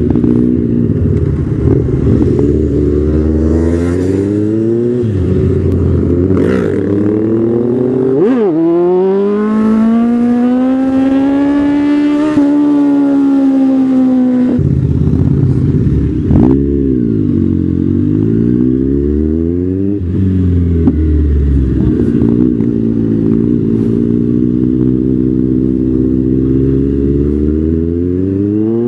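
MV Agusta 800 three-cylinder motorcycle engine under way, revs climbing and dropping with each gear change. In the middle there is one long, steady climb in pitch that cuts off sharply, followed by easier riding with the revs swelling and falling.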